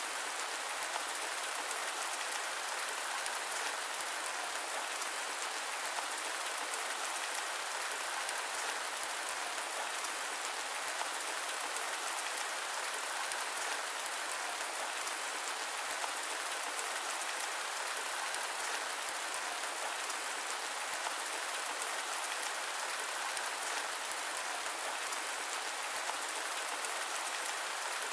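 Steady rain falling: an even hiss with a fine patter of drops, with no change and no thunder.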